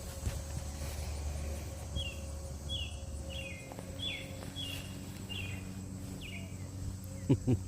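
A bird calls repeatedly: about seven short chirps, each falling in pitch, evenly spaced a little under a second apart, over a low steady hum. A few short, louder low sounds come near the end.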